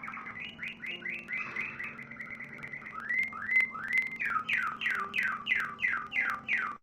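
A songbird singing a varied phrase. A buzzy trill comes first, then a few arched notes that rise and fall. It ends in a run of quick notes, each sweeping down in pitch, at about three a second.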